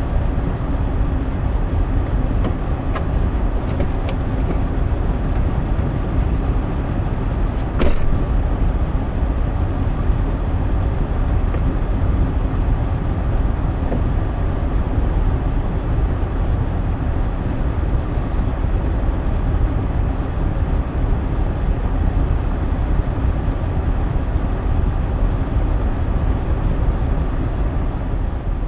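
Ford F350 diesel pickup driving, a steady low road-and-engine rumble, with one sharp knock about eight seconds in.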